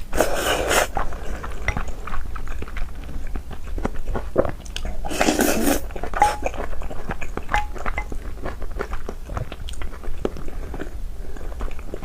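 A person chewing food close to the microphone, with crunchy bites and many small wet mouth clicks, and two louder crunching bites, one at the start and one about five seconds in.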